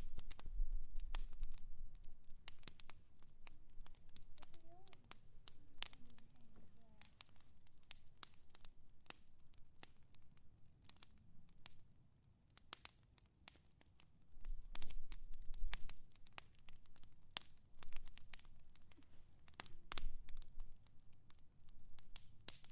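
Wood fire crackling: irregular sharp pops and snaps over a low rumble that swells near the start and again about two-thirds of the way through.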